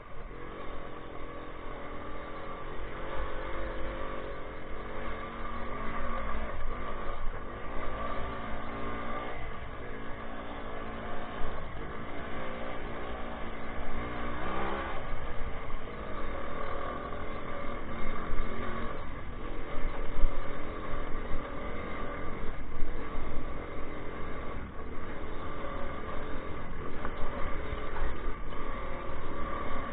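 Minsk 125 motorcycle's single-cylinder two-stroke engine running under way off-road, its pitch rising and falling as the throttle is opened and eased.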